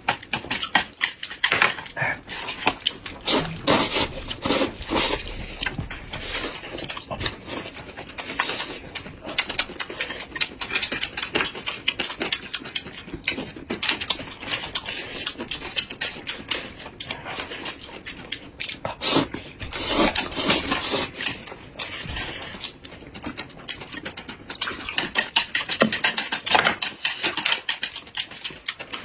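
People chewing and smacking food close to the microphone: a dense, uneven run of quick mouth clicks, heavier in a few stretches.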